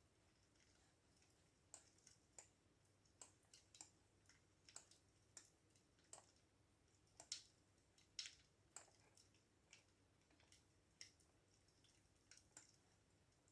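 Faint computer keyboard typing: sharp, irregular key clicks, about one or two a second, with short pauses between bursts.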